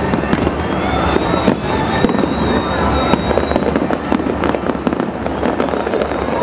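Fireworks display going off in quick succession, a dense run of bangs and crackling with no break.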